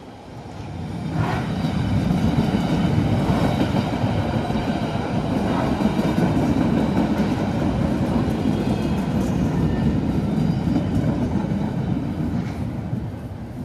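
A Chicago 'L' rapid-transit train crossing a street grade crossing: its rumble builds about a second in, holds steady and loud while the cars pass, and fades near the end.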